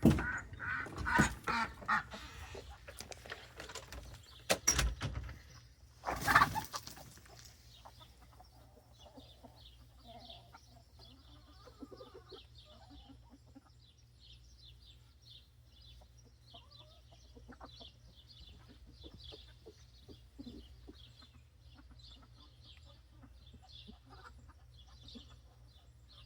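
Chickens clucking, with many short high-pitched chirps from about seven seconds in. There are a few loud knocks and rustles in the first several seconds.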